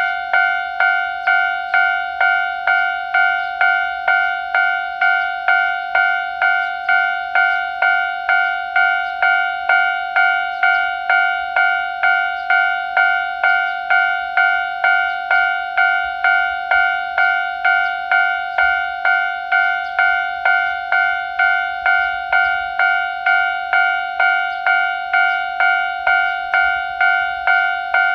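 Japanese railway level-crossing alarm ringing: one electronic bell tone struck over and over at a steady pace of a little under two strikes a second, each strike dying away before the next.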